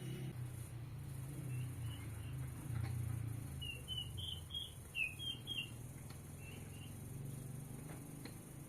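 A small bird chirping a quick run of about ten short, high notes midway through, over a steady low rumble with a few faint clicks.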